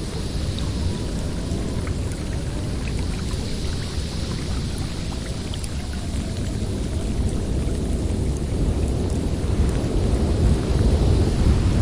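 Blizzard wind in a forest: a steady low rumble with a faint wavering howl, growing louder in a gust about nine seconds in.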